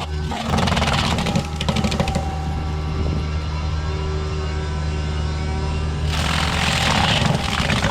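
Heavy land-clearing machine's diesel engine running steadily under load, with two stretches of louder, harsher grinding: about half a second in and again about six seconds in.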